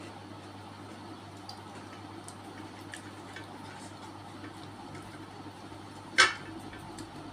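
Mukbang eating sounds: quiet wet chewing and small clicks over a steady low hum, with one loud, short, sharp sound about six seconds in.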